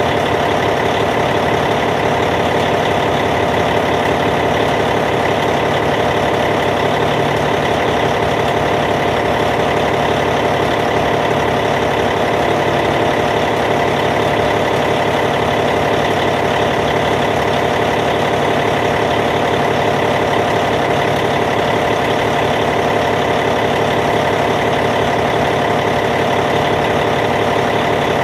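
Caterpillar C15 inline-six diesel engine of a Cat D8T bulldozer idling steadily, with no change in speed.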